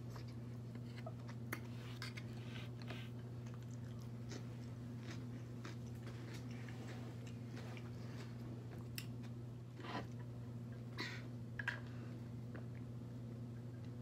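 Close-up chewing and wet mouth sounds of a person eating, with scattered soft clicks and a few louder smacks near the end, over a steady low hum.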